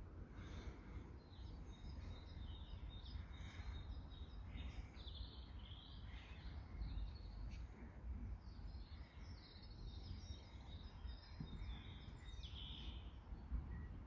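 Faint chirping and twittering of garden birds, many short high calls scattered throughout, over a low steady wind rumble.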